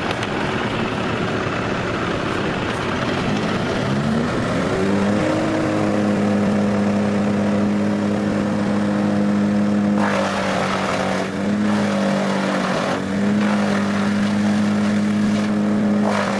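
Engine-driven wood chipper running loud. Its engine speeds up about four seconds in and settles to a steady pitch. Rushing chipping noise comes in bursts over the engine as material is fed through.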